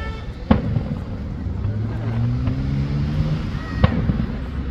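Fireworks going off, two sharp bangs about three seconds apart, over a steady low rumble of wind and traffic.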